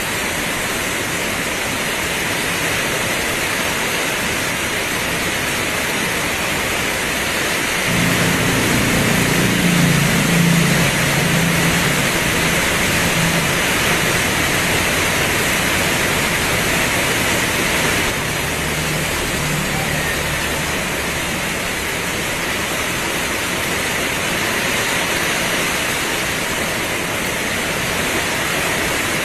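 Heavy rain pouring in a steady, even hiss. A low hum starts suddenly about eight seconds in and fades out over the next dozen seconds.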